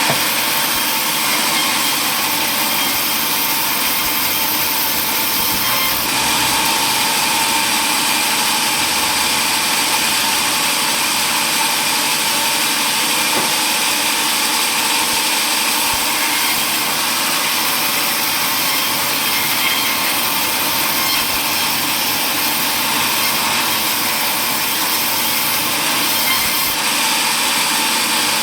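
Power saw cutting wood, a steady, continuous run whose tone shifts slightly about six seconds in and again near the end.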